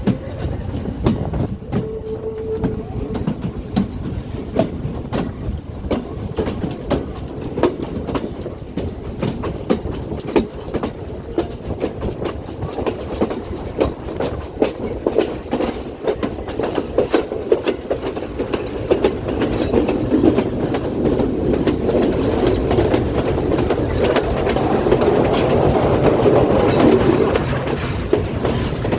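Colombo–Badulla night mail train on the move: wheels clacking over the rail joints over a steady rumble, growing louder in the last third.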